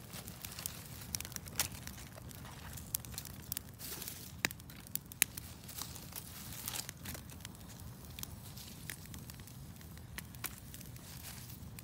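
Small campfire of kindling crackling as it catches: irregular sharp snaps and pops over a low rumble.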